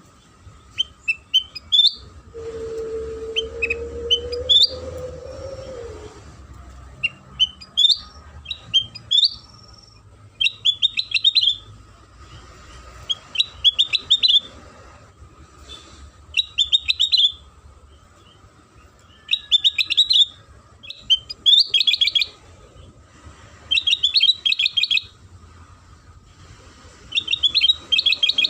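Kutilang sutra singing as a lure call: short bursts of rapid high chirps, repeated about every two seconds and growing fuller and louder after the first third. A low steady drone sounds underneath for a few seconds near the start.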